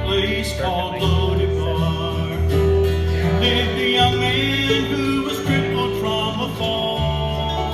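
Bluegrass band playing an instrumental intro on acoustic guitar and other plucked strings over a bass line, with a fiddle holding one long note from about a second in to about five seconds in.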